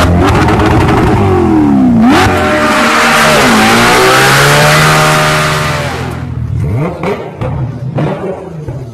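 A car engine revving hard. Its pitch drops, then climbs again in steps, like gear changes. After about six seconds it fades away.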